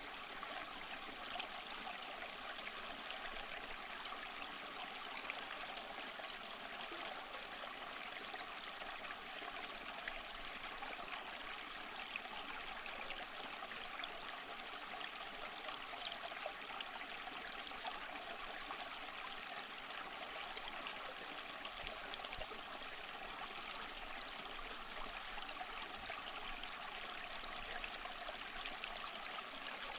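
Steady rushing of falling water with small splashes, an even unbroken wash of sound: a waterfall or fast stream.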